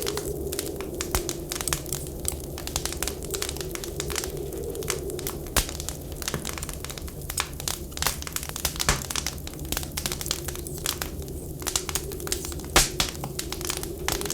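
Wood fire crackling and popping irregularly, with one sharper, louder pop near the end, over a whistling wind that rises and falls in pitch.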